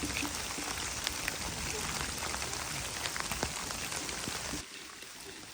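Steady rain falling, with individual drops ticking through it. Near the end it cuts off abruptly to a much quieter background.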